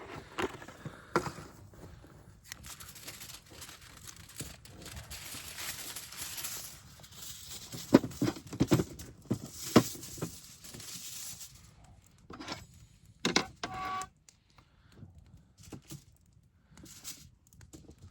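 Rustling and crinkling handling noises broken by a series of sharp knocks and clicks, the loudest about halfway through, with a short squeaky scrape a little after.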